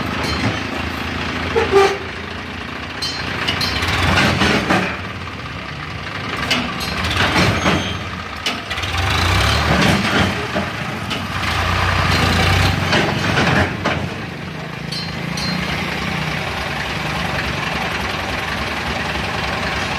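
Heavy vehicle diesel engine running, swelling and easing off several times, with engine and road noise around it.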